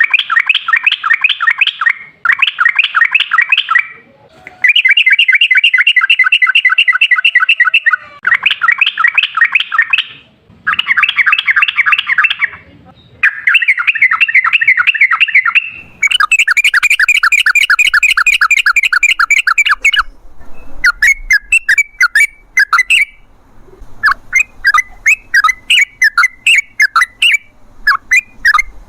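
Yellow-vented bulbul (trucukan) singing loudly in long, fast chattering runs of bubbling notes, each run lasting a second or more and repeated after short pauses. From about two-thirds of the way through, the song breaks into quicker, separate chirps.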